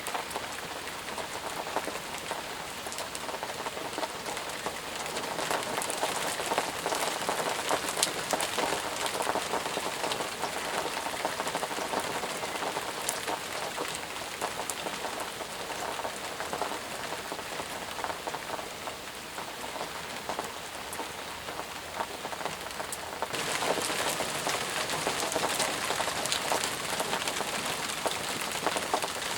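Intense rain falling steadily: a dense hiss of drops with many small separate pattering ticks. About 23 seconds in the sound abruptly turns brighter and a little louder.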